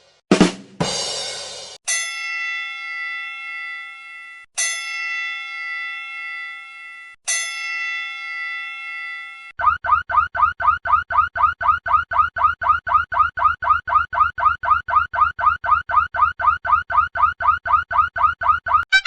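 A string of sound-board effects. Two short hits come first, then a ringing chime struck three times, each strike fading. From about halfway through, an electronic alarm repeats a quick rising chirp about four or five times a second over a low hum.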